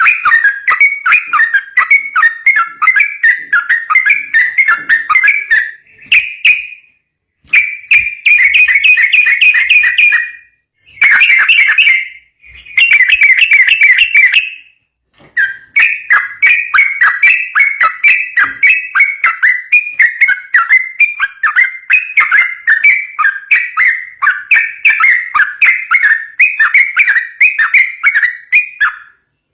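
Yellow-vented bulbul singing a fast, continuous run of rapidly repeated chirping notes, the rattling "ropel" style of song, broken by a few short pauses in the first half.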